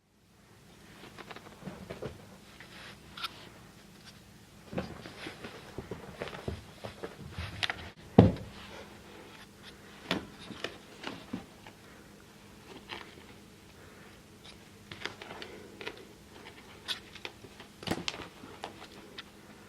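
Scattered light taps, scrapes and rustles of a Bengal kitten playing and moving about, with one louder thump about eight seconds in.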